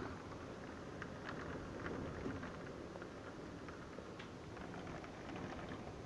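Faint steady rain, with scattered drops ticking sharply now and then.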